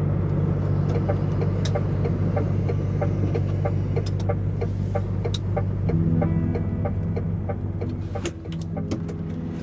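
DAF XF105.460 truck's engine droning steadily in the cab while driving, with a regular ticking about three times a second. Music fades in about six seconds in and the engine drone drops back near the end.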